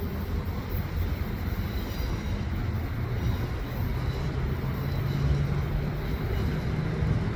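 Steady low rumble of distant vehicle traffic with a faint steady engine hum.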